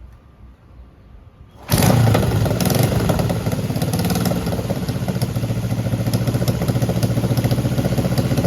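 Honda CJ360's air-cooled parallel-twin engine starting abruptly about two seconds in, then running with a steady, even pulsing beat.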